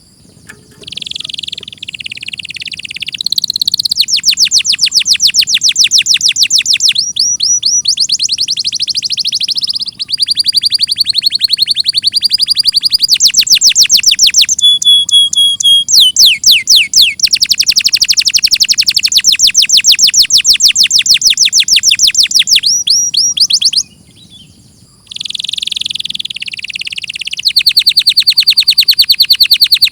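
Domestic canary singing a long song of fast repeated trills, rolls and whistled notes, each phrase a rapid series of high notes at a steady rate, with short pauses between song bouts.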